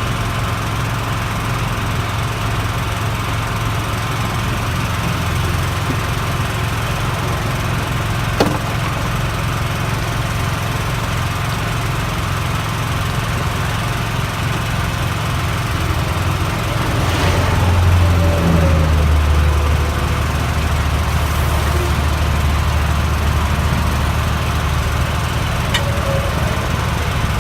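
An engine running steadily, with a low hum that grows louder about seventeen seconds in, and a single sharp click about eight seconds in.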